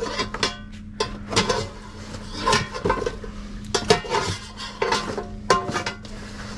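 Metal scrap clanking and rattling as it is rummaged through in a dumpster: a dozen or so irregular knocks, many with a short metallic ring, over a steady low hum.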